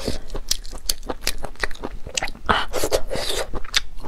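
Close-miked chewing of rubbery marinated sea snail meat: many quick wet clicks and smacks, with a longer wet chewing sound a little past the middle.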